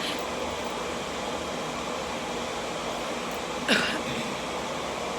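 Steady whooshing of a fan or air-conditioning unit running. About three and a half seconds in, one short sound with quickly falling pitch cuts in.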